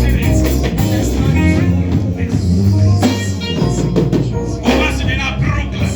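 Live church band music with electric guitar, bass and drums.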